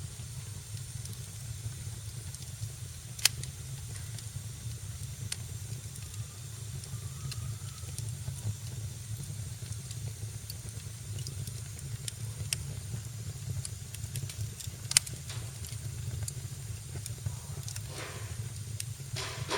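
Wood fire burning in a fireplace: a steady low rumble and hiss, with sparse sharp crackles and pops. The two loudest pops come about three seconds in and about fifteen seconds in, and there is a short hissing flare near the end.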